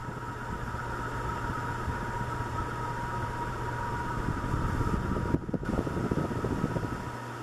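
1991 SMC Promo Deluxe 90 cm ceiling fan running at medium speed, about 200 RPM: a steady motor hum with a gusty rush of moving air. The rush grows through the middle and eases near the end.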